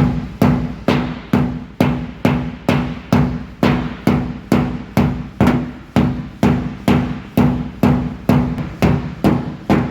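A mallet beating on a car's steel front guard (fender), folding up the lip of the wheel arch so the tyre won't scrub. The blows come in a steady rhythm of about two and a half a second.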